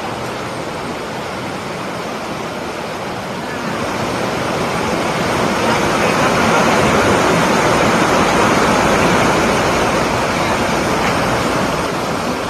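Waterfall's water pouring and rushing as a steady, loud wash of noise, swelling a few seconds in and then holding.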